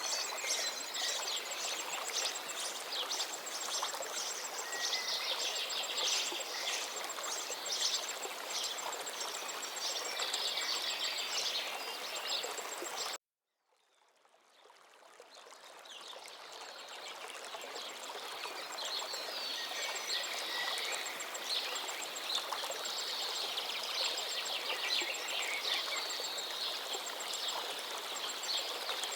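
Many songbirds singing and chirping over the steady rush of a flowing river. About halfway through, the sound cuts out abruptly for a moment, then fades back in over several seconds.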